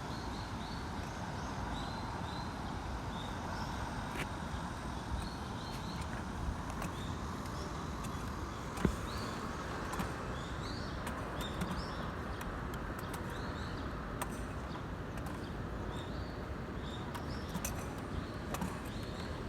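Steady outdoor background noise with small birds chirping again and again in short rising notes. A few sharp knocks stand out, the loudest about nine seconds in.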